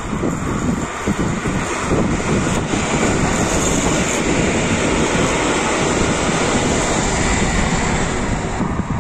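EN57ALc electric multiple unit passing close by: a steady rush of wheels on rail and running gear that grows louder about two seconds in and eases just before the end.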